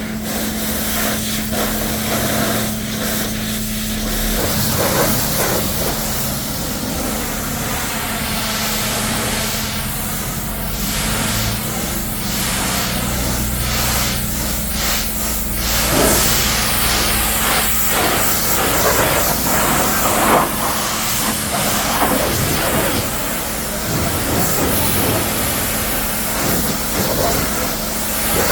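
Pressure washer spraying a muddy truck: a loud, continuous hiss of water jet that shifts in tone as the spray moves over the surfaces, over a steady low hum.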